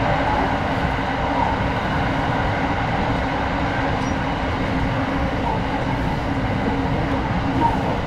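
Steady running noise of a JR Special Rapid electric train, heard inside the passenger cabin: an even rumble of the moving train with a faint steady hum, unbroken throughout.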